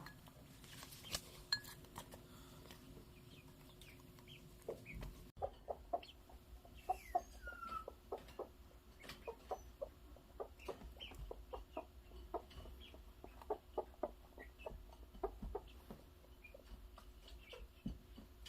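Broody mother hen clucking softly in short, repeated clucks, a few a second, with one higher sliding peep about seven seconds in and a faint steady hum behind.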